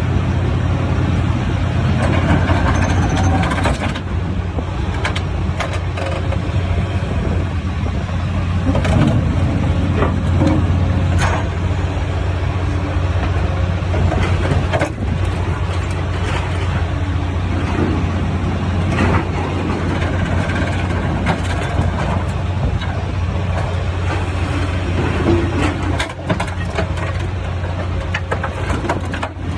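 Sierra T550 logger baler shear running steadily under load, its heavy engine and hydraulics droning as it cuts up a steel truck frame. Scattered metal clanks and creaks from the shear and scrap sound at irregular moments.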